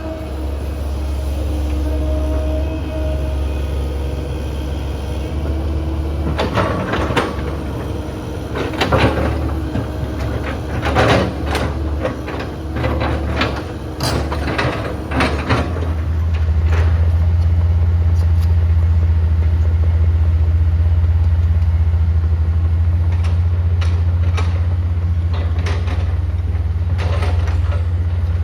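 Heavy diesel earthmoving machinery running with a steady low drone, with a spell of repeated metallic clanks and knocks in the middle. The engine then runs louder and steadier.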